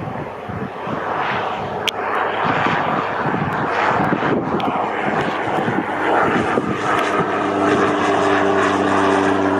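Propeller aircraft's piston engine droning as it flies past, growing a little louder, with a steady engine note coming through from about six seconds in.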